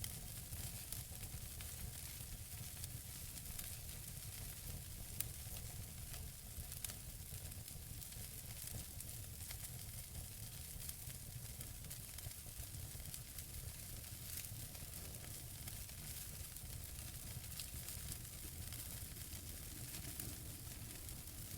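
Wood fire burning in a fireplace: a steady soft hiss with a low rumble underneath and scattered small crackles and pops from the burning logs, a sharper pop about five seconds in.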